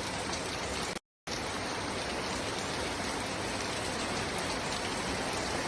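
Steady rain falling, an even hiss of many drops. About a second in, the sound cuts out completely for a moment, then resumes unchanged.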